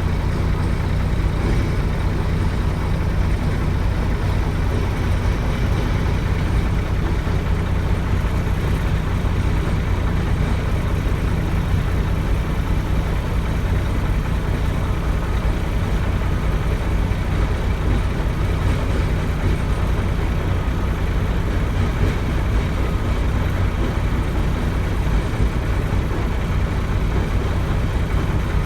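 Heavy truck's diesel engine running at a steady low rumble, with no revving or gear changes.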